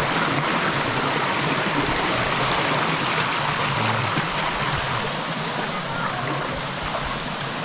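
Steady rush of water pouring over the rock of a shallow cascading waterfall.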